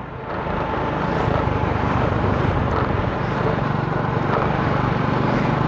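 Steady rush of wind on the microphone while travelling on the road, with a vehicle engine's low steady hum underneath.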